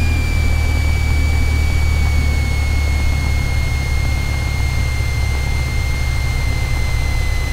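Cessna 172's engine and propeller running at taxi power, a steady low drone from inside the cockpit, with a thin high whine that slowly drops in pitch.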